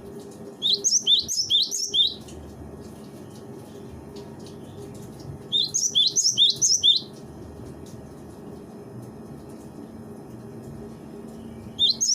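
Cinereous tit (gelatik batu) singing: three bursts of quickly repeated high, ringing two-note phrases, over a steady low background hum.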